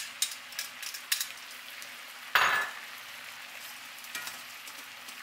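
Salmon fillets frying in foaming butter in a cast-iron skillet: a steady sizzle with sharp pops and crackles in the first second or so, and a brief louder hiss about two and a half seconds in.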